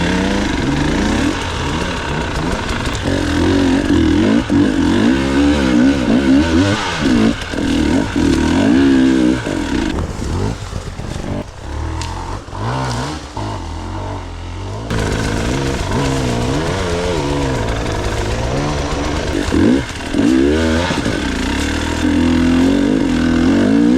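Enduro motorcycle engine revving up and down over and over, its pitch rising and falling every second or so, somewhat weaker for a few seconds in the middle.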